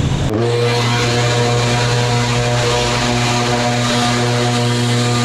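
Small engine of lawn-care equipment running steadily at full throttle, an unwavering pitched drone. It switches in abruptly just after the start, from a different engine sound.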